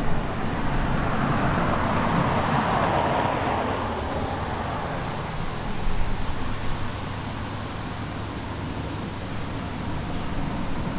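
Road traffic: a steady rush of tyre noise from passing cars, one swelling about two seconds in and fading by about four seconds, over a low rumble.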